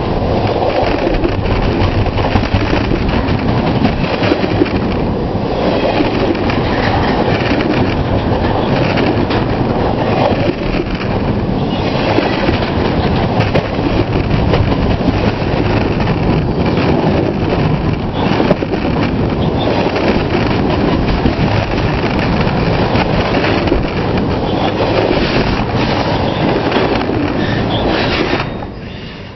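Canadian Pacific train passing close by, its cars rumbling and clattering over the rails. The sound drops off sharply near the end.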